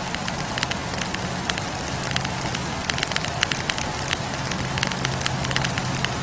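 Wood campfire crackling: burning logs give off frequent small, irregular pops and snaps over a steady low rumble of the flames.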